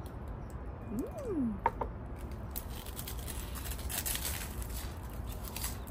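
Close-up chewing of a crunchy beef salad with raw leaves: irregular crisp crackles that build up from about two seconds in. A brief tone rising and then falling comes about a second in.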